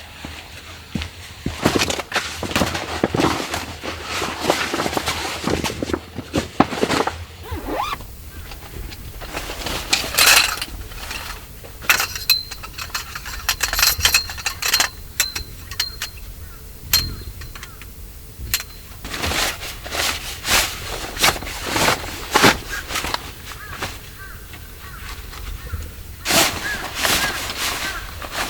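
Irregular knocks, clicks and clinks of things being handled, over a steady hiss of rain. A faint high steady tone sounds for several seconds in the middle.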